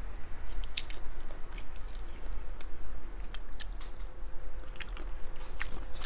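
A person chewing seafood with the mouth close to the microphone: irregular wet, squishy smacks and small clicks. A low steady hum runs underneath.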